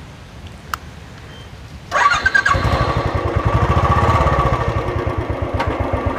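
Royal Enfield motorcycle being started: a brief starter whine about two seconds in, then the engine catches and runs with a steady, fast low thumping.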